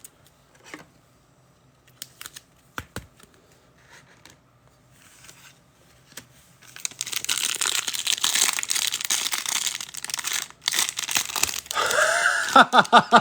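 Plastic packaging being handled and torn open, with a few faint clicks at first, then continuous crinkling and tearing from about seven seconds in.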